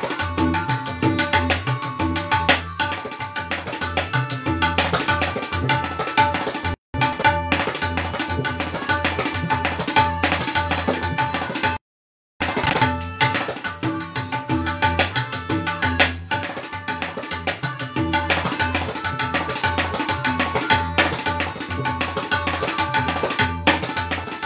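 Tabla played solo in a fast, dense stream of strokes, with the deep bass drum strokes and the ringing treble drum both heard, over steady held tones of a melodic accompaniment. The sound cuts out completely twice, briefly, about a third of the way through and again about halfway.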